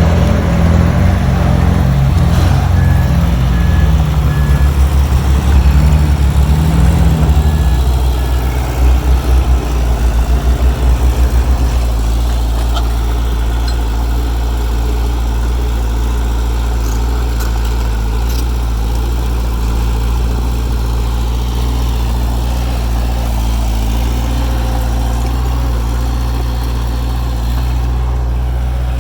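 Heavy diesel engine of construction machinery running under load, its sound rising and falling for the first twelve seconds, then settling into a steadier, slightly quieter run.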